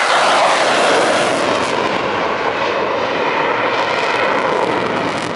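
F-16 fighter jet's engine at high power as the jet takes off and climbs away: a loud, steady rush of jet noise that slowly fades toward the end.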